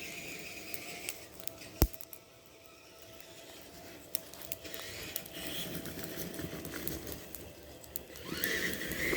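Tamiya TXT-2 RC monster truck driving: its electric motors and gearing whine while the tyres and chassis clatter over the ground with scattered clicks, and there is one sharp knock about two seconds in. Near the end the motors speed up with a rising whine.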